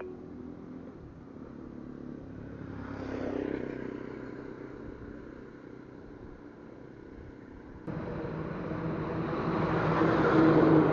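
Motorcycle engine running, with evenly stacked engine tones. It swells briefly about three seconds in, then gets suddenly louder near eight seconds in and keeps building toward the end.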